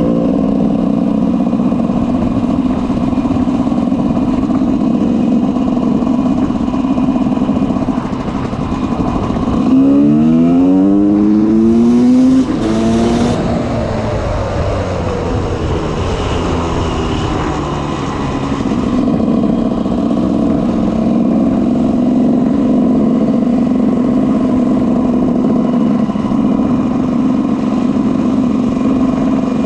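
2004 GasGas EC 300's single-cylinder two-stroke engine with an FMF Powercore 2 exhaust, running steadily. About ten seconds in it revs up in a few rising pulls, the loudest part, then drops back to steady running.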